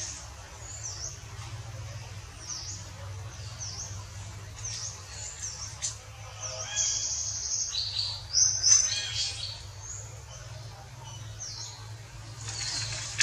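Birds chirping: short, high chirps that dip and rise, repeating about once a second, with a louder flurry of higher calls around the middle. A steady low hum runs underneath.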